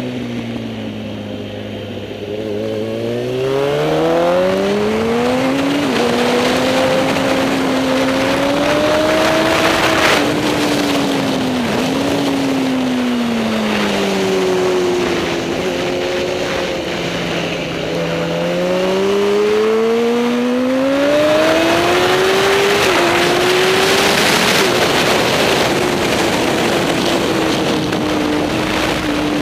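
Superbike racing motorcycle engine at race speed, its pitch rising under acceleration and dropping back for braking and corners, with short sudden dips at gear changes several times.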